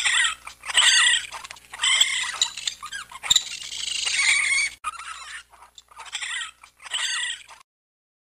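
An animal's high-pitched calls, about six in a row, the longest in the middle and the last ones fainter, then cutting off suddenly.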